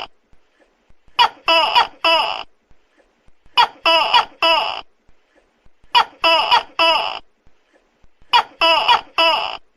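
Tokay gecko calling loudly: a short sharp note followed by three pitched calls, the group repeating at an even pace about every two and a half seconds, four times.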